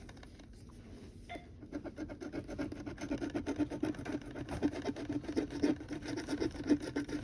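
A scratch-off lottery ticket being scratched, with fast back-and-forth rasping strokes that start about a second and a half in.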